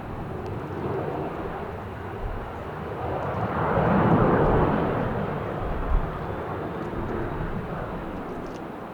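Departing Boeing 737-800's CFM56 jet engines heard at a distance, a rushing noise that swells to a peak about four seconds in and then fades away. Gusty wind rumbles on the microphone throughout, with one brief jolt near six seconds in.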